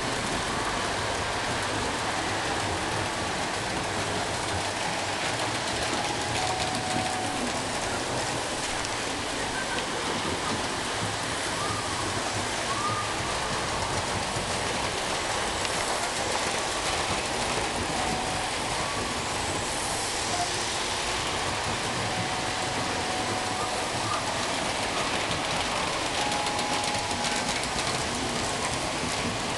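Model trains running on the layout's track, a steady even rushing clatter of small wheels and motors, with a few faint short tones over it now and then.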